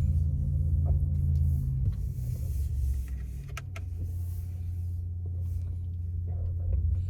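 Steady low rumble of road and tyre noise inside the cabin of a Porsche Taycan electric car as it drives, with two short clicks a little past the middle.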